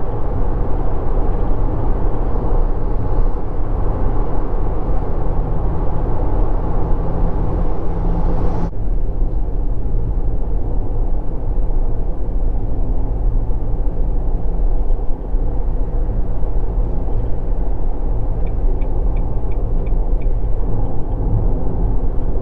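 Road and engine noise inside a moving Mitsubishi Delica Mini's cabin: a steady low rumble. About a third of the way in the higher hiss drops away suddenly, and near the end a brief run of faint quick beeps sounds over the rumble.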